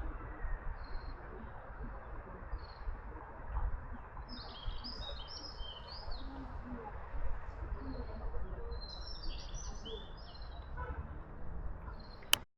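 Small birds chirping in short high calls, in clusters about halfway through and again later on, over steady low background noise. A single sharp click just before the end.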